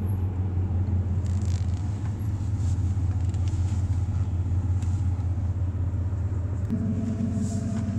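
Car engine and road rumble heard from inside the cabin, a steady low drone. About seven seconds in, a higher engine note joins.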